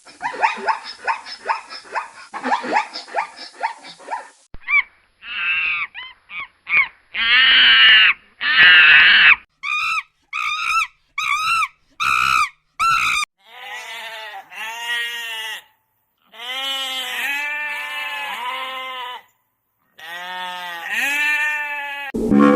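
Animal calls from about six separate recordings cut one after another: a quick run of short calls, then longer pitched calls and series of short repeated calls, some rising and falling in pitch.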